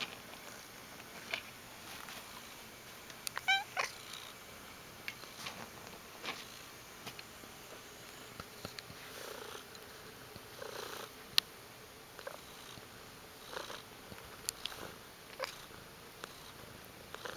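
Pet cat making short, odd little noises every second or two, the loudest a brief pitched call about three and a half seconds in.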